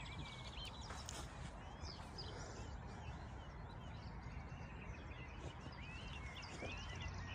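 Wild birds singing: many short chirps and whistles with a few fast trills, over a low steady rumble.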